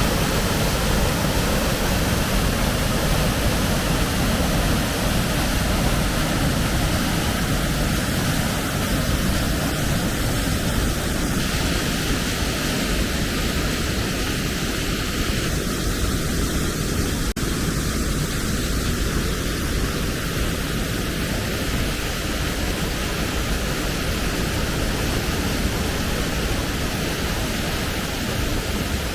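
Waterfall rushing steadily: an even, dense noise heaviest in the low end, with no pitched notes.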